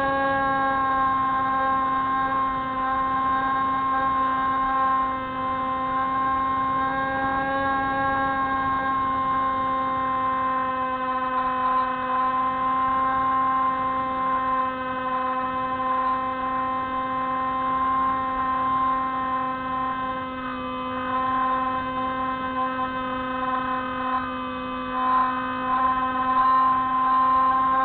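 The Spyhawk FPV model plane's motor and propeller giving a steady, even-pitched drone in flight. The pitch wavers slightly a few times near the end.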